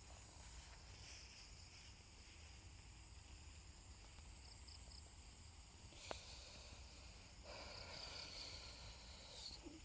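Faint steady high-pitched chorus of insects such as crickets, with a single sharp click about six seconds in and a soft hiss joining over the last two seconds.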